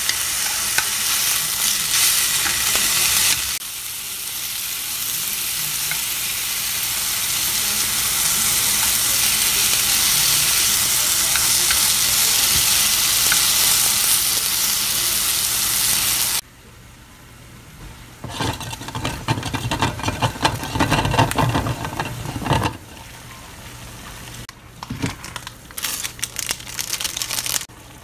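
Thin meat slices and mushrooms sizzling steadily in a hot frying pan as chopsticks turn them. About sixteen seconds in the sizzle cuts off abruptly, and irregular clattering and bubbling follows as instant noodles boil and are stirred in a saucepan.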